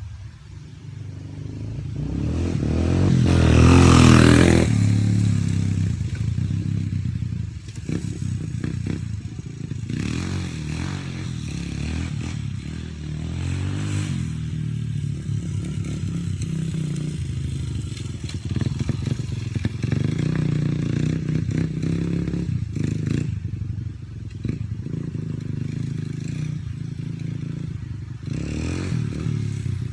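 Dirt bike engine revving as the bike rides past, swelling to its loudest about four seconds in, then running on with rising and falling revs and scattered short knocks.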